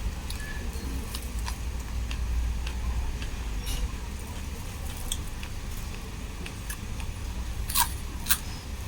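Eating sounds: a person chewing, with scattered small crisp clicks and crunches and two louder clicks near the end, over a low steady rumble.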